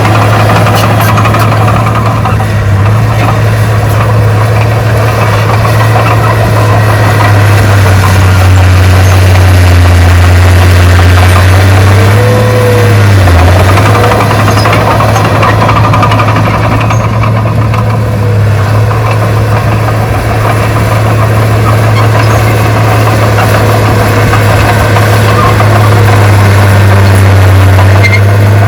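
Heavy earthmoving machine's diesel engine running. Its low drone shifts in pitch a few times, and a brief high tone rises and falls about twelve seconds in.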